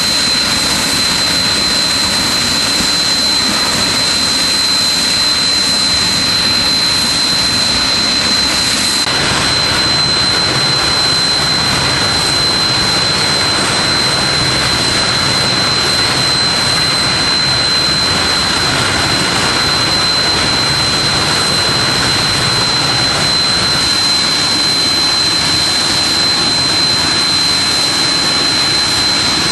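Natural gas escaping under pressure, a loud steady hiss with a thin high whistle running through it. About nine seconds in, the hiss turns fuller and rougher.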